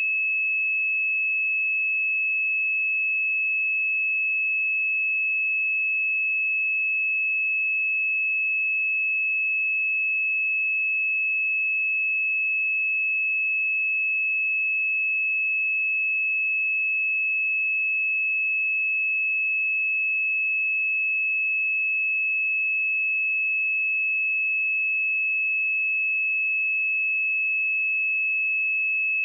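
Steady, unbroken pure sine-wave test tone at 2593 Hz, a single high-pitched whistle-like tone at constant loudness.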